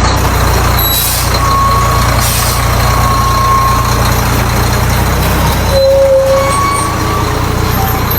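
Heavy truck diesel engine running with a steady deep drone, with two short hisses of air in the first few seconds.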